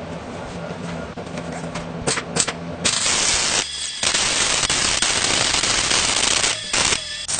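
A loud, harsh crackling hiss starts about three seconds in. It stops briefly twice, after a few clicks and a low hum.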